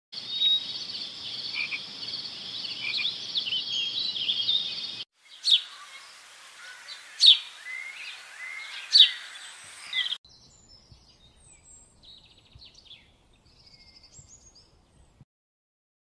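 Bird calls in three short recordings: first a dense chorus of high chirps, then three loud, sharp calls about two seconds apart, then faint high chirps that stop near the end.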